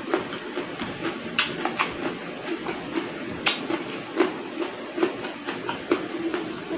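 A person chewing and crunching raw cucumber, with several sharp crunches scattered among the wetter chewing.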